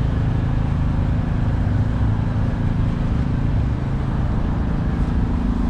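An engine running steadily at constant speed: a low, even hum that does not change.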